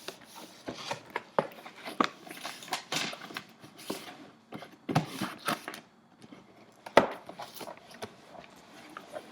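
Cardboard box being handled and wiped down to disinfect it: irregular rustling, rubbing and scraping with scattered knocks, the sharpest about seven seconds in.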